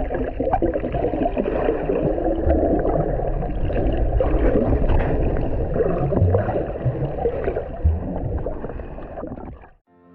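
Muffled, steady rush of water and wind from a jet ski under way, with irregular low thumps; it cuts off abruptly near the end.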